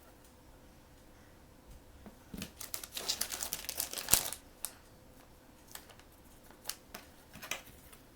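Plastic blind-box packaging crinkling and crackling as it is handled and opened: a dense run of crackles starting about two and a half seconds in, ending in one sharp click, then a few scattered clicks.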